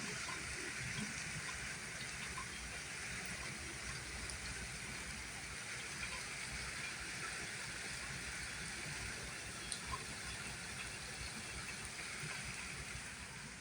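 Heavy rain falling in a steady downpour: an even hiss with a few scattered drop ticks.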